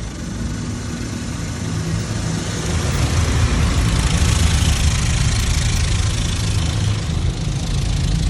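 Car wash tunnel equipment at work on a car: a steady low rumble under a loud, even hiss of water and wash equipment that builds over the first few seconds, just after the foam comes on.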